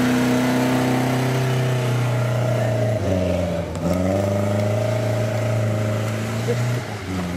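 A vintage car's engine revving hard and held at high revs, dipping briefly and climbing again about three seconds in, then dropping away near the end.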